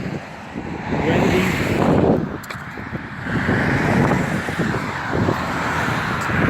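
Gusty wind rushing over the microphone in a snowstorm, swelling and easing every second or two.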